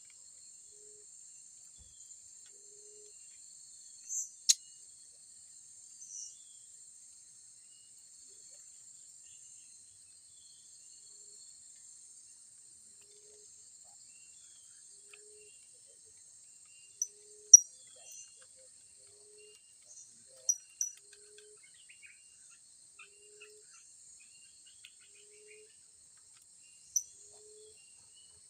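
A steady high insect drone of crickets, with a faint low note repeating about once a second. Short, sharp high-pitched bird chirps break in now and then, a pair about four seconds in and the loudest cluster past the middle.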